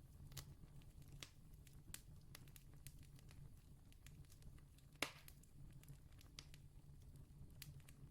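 Faint wood campfire crackling: scattered small sharp snaps, with one louder pop about five seconds in, over a steady low rumble.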